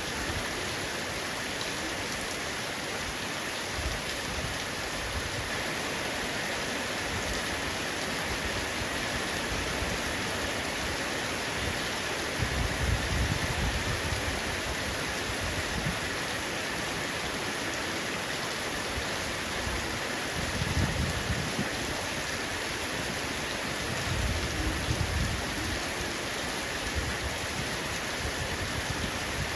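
Heavy rain falling steadily on a roof, an even hiss of drops. Three short low rumbles rise under it, about thirteen, twenty-one and twenty-five seconds in.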